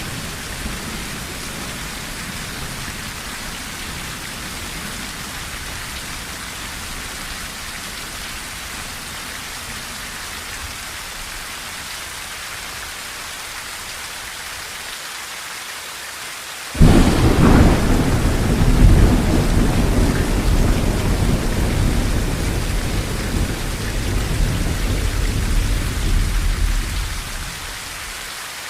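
Steady rain drumming on a tin roof. About two-thirds of the way through, a sudden thunderclap cracks in and rolls on as low rumbling for about ten seconds before dying away.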